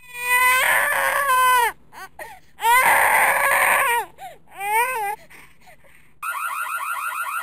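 Infant crying: two long wails that fall in pitch at the end, then a shorter cry. About six seconds in, a different rapid, warbling tone starts.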